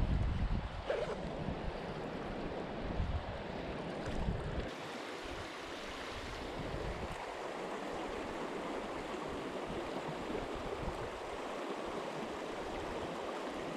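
Steady rush of a flowing river. Low wind gusts buffet the microphone for the first few seconds, then stop suddenly.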